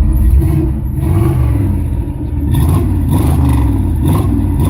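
A car engine is revved through a loud exhaust. The throttle eases off briefly about two seconds in, then is blipped again in several short surges.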